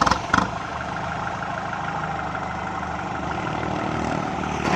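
Kubota MU5702 tractor's diesel engine running steadily, with a few sharp knocks in the first half second.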